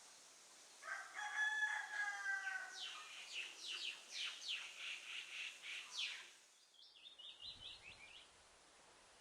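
Bird calls: a drawn-out, steady-pitched crowing call lasting about two seconds, followed by a fast series of sharp descending notes, then a brief softer chatter near the end.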